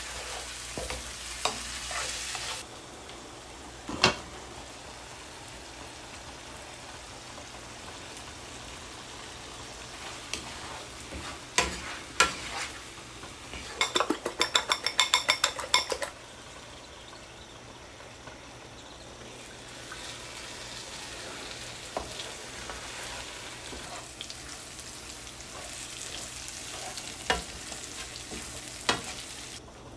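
Onions, tomatoes, bell peppers and scotch bonnet peppers sizzling in a frying pan as they cook down into a sauce, with a spoon stirring and now and then clicking against the pan. About halfway through there is a quick run of taps lasting a couple of seconds.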